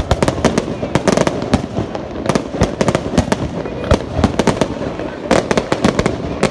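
Aerial fireworks bursting in a dense, continuous barrage: several sharp bangs a second, overlapping one another.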